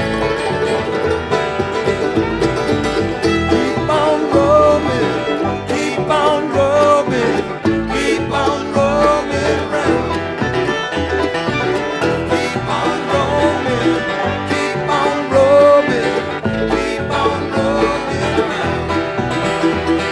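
Live bluegrass band playing an instrumental passage: banjo rolls and acoustic guitar with a melody line over a steady bass pulse.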